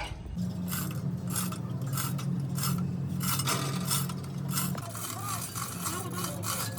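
Rapid metallic scraping or rasping strokes, about three a second, over a steady machine hum that drops a little about five seconds in.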